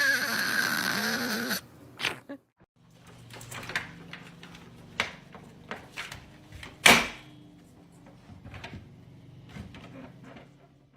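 A dog's drawn-out, rough grumbling vocalization as it talks back, cutting off after about a second and a half. A low steady hum follows, with scattered clicks and knocks and one louder knock about seven seconds in.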